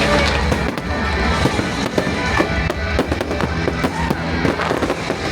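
Fireworks going off in rapid, irregular pops and bangs over loud music.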